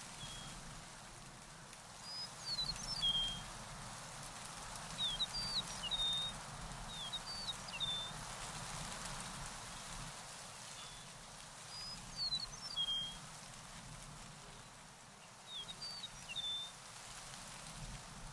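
A songbird singing short phrases of quick chirps and down-slurred notes, five phrases a few seconds apart, over a steady outdoor hiss.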